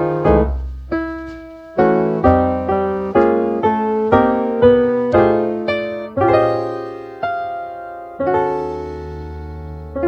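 Instrumental background music: a piano playing a slow, gentle melody over chords, notes struck about twice a second and then giving way to longer held chords in the second half.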